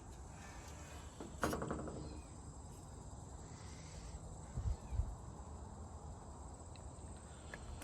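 Faint outdoor background with a steady high insect chirring, a short squeak about a second and a half in, and two soft low thumps around five seconds in.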